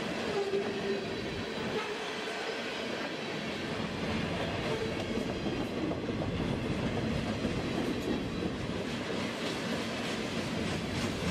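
Freight train cars rolling steadily past, steel wheels rumbling and clicking on the rails, a little louder from about four seconds in.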